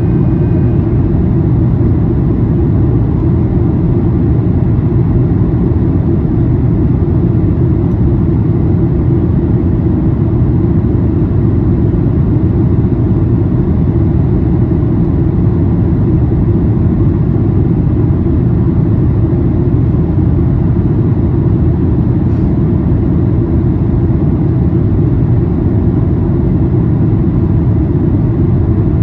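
Steady low rumble of engine and airflow noise inside the cabin of a Boeing 737-800 airliner, with CFM56-7B turbofans, on approach shortly before landing. The level holds even throughout.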